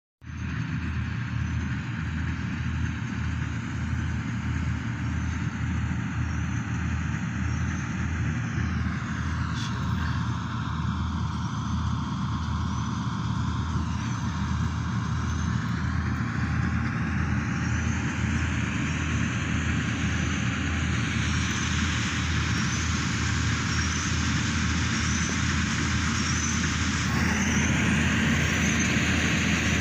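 New Holland 8070 combine harvester running steadily under work, its engine and machinery making a continuous din with a low, regular thud beneath it. It grows slightly louder and brighter near the end.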